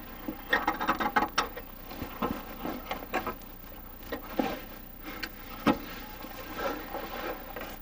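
Irregular knocks, clicks and scraping from handling a stiff diesel-heater hose being forced through a tight opening, a few sharper knocks among softer rubbing.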